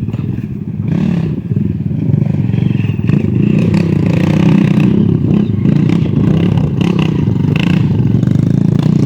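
Off-road motorcycle engine running close by, louder from about two seconds in and then holding steady.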